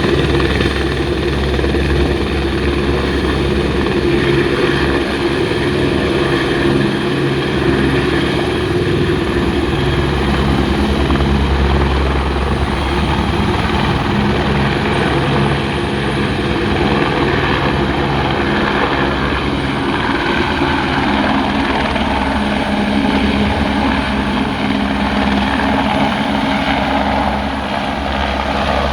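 Helicopter running close by, its rotor giving a steady low beat under loud engine noise, holding at an even loudness.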